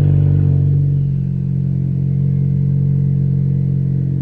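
Ford Focus ST's 2.0-litre turbocharged four-cylinder, straight-piped with resonator and muffler removed, just after a cold start, heard from inside the cabin. It flares up loudest at the start, dips slightly in pitch over the first second and settles into a steady cold idle.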